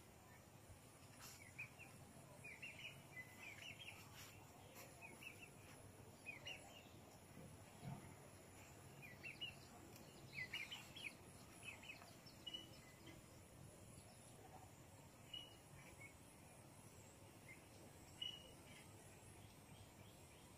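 Faint bird chirps over quiet outdoor background: small clusters of quick, high chirps recurring every second or two, thinning out toward the end.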